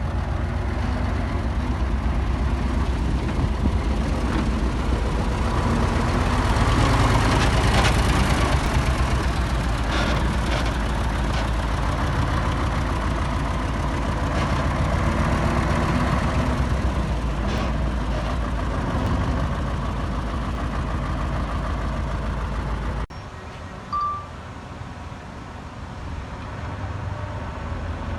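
Heavy diesel earthmoving machinery running steadily under work, loudest about seven to eight seconds in. At about 23 seconds it cuts abruptly to a quieter engine sound, with a single short beep a second later.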